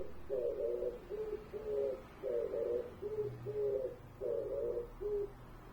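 A bird calling in low hooting notes, a rolling, purr-like note followed by two short plain notes, repeated three times, then stopping about five seconds in.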